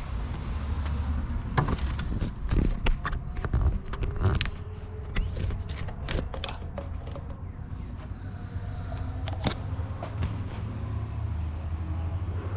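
Plastic quart bottle of automatic transmission fluid clicking and crackling as it is handled and poured into a funnel. The clicks come thick for the first several seconds, then thin out, over a steady low hum.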